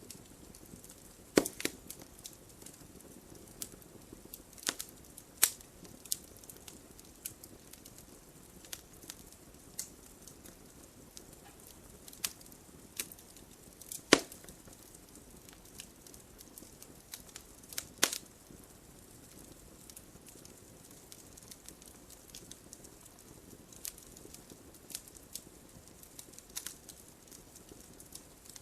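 Wood fire burning in a fireplace: irregular sharp crackles and pops, a few much louder than the rest, over a soft steady hiss of flames.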